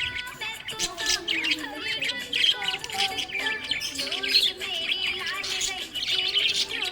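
Budgerigars chirping and warbling in a fast, continuous chatter of short, gliding chirps.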